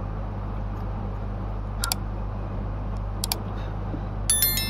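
Small sharp clicks from a laptop's RAM module and its retaining clips being handled, ending in a brief cluster of clicks with a short metallic ring, over a steady low hum.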